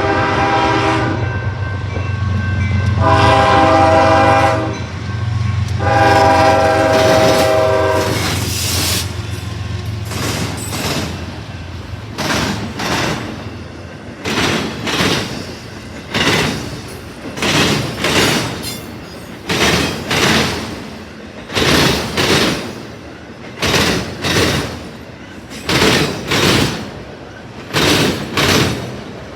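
CSX train's locomotive horn sounding three blasts over the diesel engine rumble, the last the longest. Then the train's cars roll past, their wheels clicking over rail joints in steady pairs.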